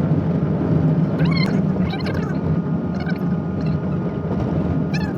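Car running on a snow-covered road, heard from inside: a steady low engine and tyre hum, with a few short higher squeaks.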